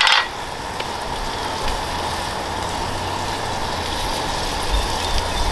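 Potatoes, onions and peppers frying in oil in a large wok-style pan: a steady sizzle, with a low rumble underneath from about a second and a half in.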